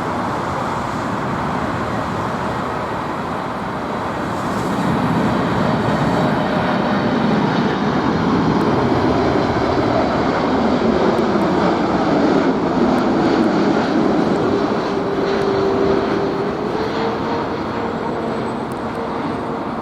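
Four-engined Boeing 747 jet passing by, its engine roar swelling to a peak in the middle and then easing off, with a slow sweeping change in tone as it goes.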